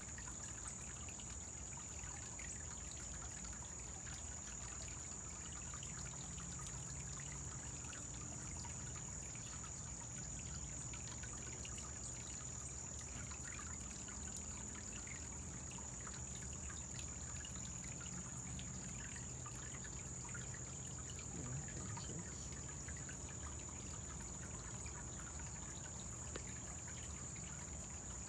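Small koi pond waterfall trickling steadily, under a constant high-pitched whine.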